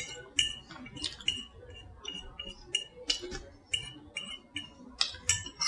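Close-miked eating sounds: chewing on cauliflower-crust pizza, with short, sharp wet clicks and smacks, about two to three a second.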